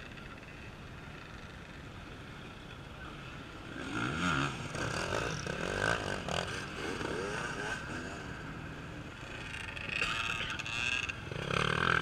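Off-road racing motorcycle engines revving up and down. A bike grows loud about four seconds in and another near the end, over a steady hum of engines further off.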